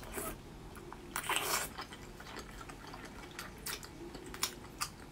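Wet mouth sounds of biting and chewing a soft, gelatinous braised pork-skin roll: two wet bites in the first two seconds, the second louder, then quieter chewing with a few short wet clicks.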